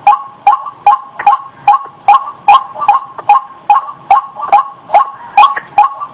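White-breasted waterhen calling in a steady run of sharp, evenly repeated notes, about two and a half a second, each note with a doubled pitch.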